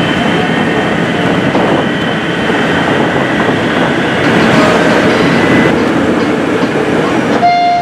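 Running noise heard inside a 203 series electric commuter train car at speed: a loud, steady rumble of wheels on rail with faint steady high tones over it. Near the end a sustained tone begins.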